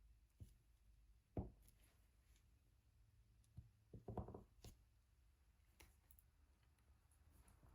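Faint, scattered small clicks and taps of diamond painting: the drill pen and small plastic resin drills tapping against the tray and canvas. The sharpest click comes about a second and a half in, with a small cluster of taps about four seconds in.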